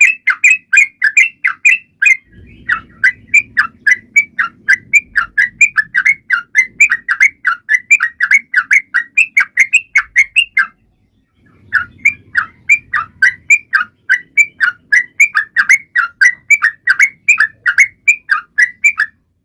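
Yellow-vented bulbul (trucukan) calling in a rapid, unbroken string of sharp chirps, about five a second. The string breaks briefly about two seconds in and again near the middle, then stops just before the end.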